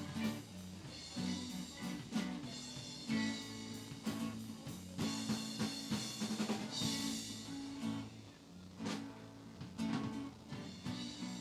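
Live band playing at an open jam: drum kit with snare and bass drum hits under guitar and bass.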